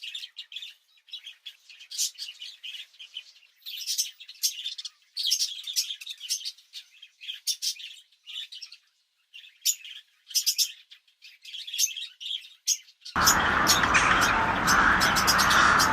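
Small birds chirping and tweeting in quick, high, separate phrases with short gaps. About 13 seconds in, this cuts off and a louder, dense, steady chorus with many chirps on top takes over abruptly.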